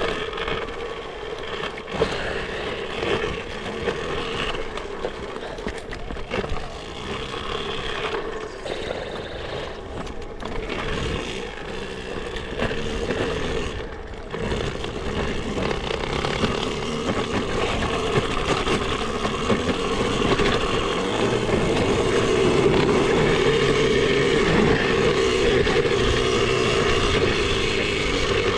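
Electric dirt bike riding along a rough trail: a steady motor whine under the rattle and scrape of tyres and frame over rocks and roots. It gets louder in the second half.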